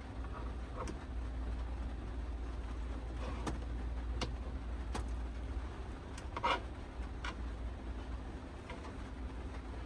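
Heavy rain drumming steadily on the roof of a kei van, heard from inside the cabin, with a few short sharp clicks and taps on top, one louder about six and a half seconds in.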